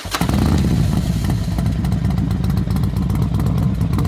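Motorcycle engine running steadily, loud and low-pitched.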